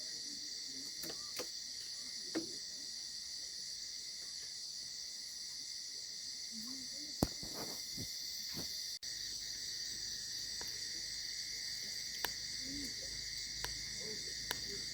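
Steady chorus of insects trilling in several high layers, crickets among them, with a few sharp scattered clicks. The sound drops out for a split second about nine seconds in.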